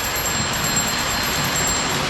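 Lionel model trains running on the layout: a steady rumble and whir of wheels and motors on the track, with a thin high ringing tone over it that stops near the end.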